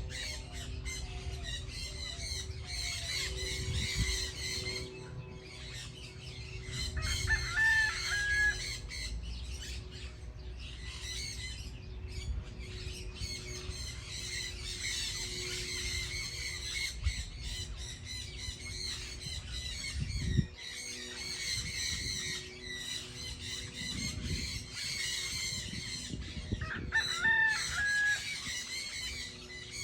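A dense chorus of many small birds chirping continuously. Over it, a louder call with a short rise and then a held note sounds twice, about 8 seconds in and near the end.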